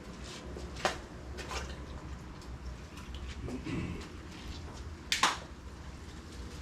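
Hand wet sanding with 2000-grit paper on a soft sanding block over soapy water: short wet swishes and drips, with two sharper clicks, one about a second in and a louder one past five seconds.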